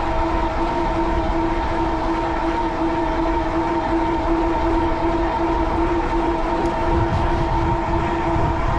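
Steady whine of an e-bike's 750-watt Bafang rear hub motor under power at a constant pitch, over a low rumble of wind on the microphone that gusts stronger near the end.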